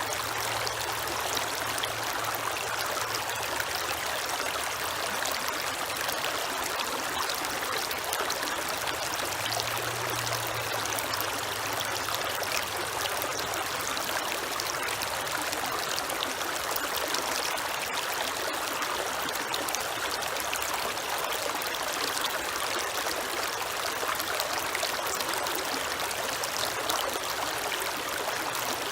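Creek water flowing and trickling in a steady rush. A faint low hum comes and goes twice beneath it.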